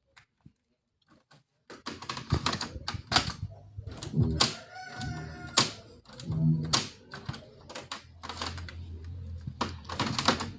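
Near silence, then from about two seconds in a dense run of irregular sharp clicks and clatter over a low steady hum.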